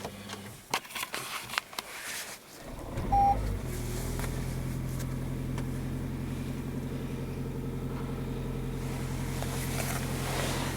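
Toyota C-HR started cold after a week standing outside in winter frost: a few clicks, a short burst of cranking with a brief beep, then the engine catches about three and a half seconds in and idles steadily. It starts without trouble.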